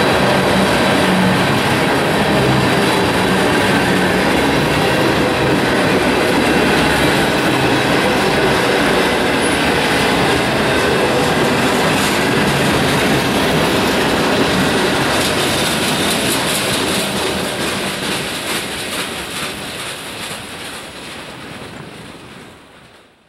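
A mixed freight train's cars (tank cars and boxcars) rolling past close by, the wheels clattering steadily over the rail joints. The sound fades as the last cars pull away, then cuts off.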